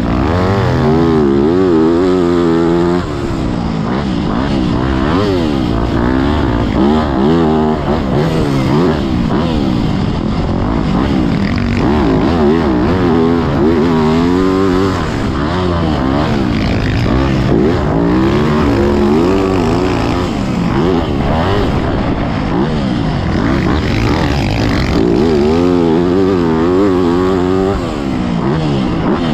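Yamaha YZ motocross bike's engine revving up and down over and over as the throttle is opened and rolled off around the track.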